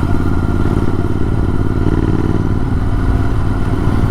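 Motorcycle engine running through an AEW TE102 aftermarket exhaust with the dB killer removed, giving a raw, unbaffled exhaust note as a steady low rumble.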